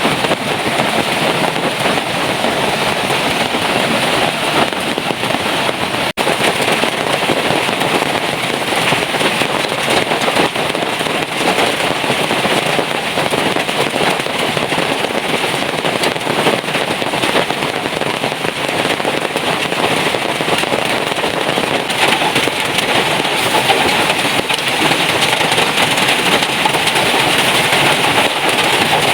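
Heavy rain falling steadily, a dense patter of countless drops hitting a surface. The sound drops out for an instant about six seconds in.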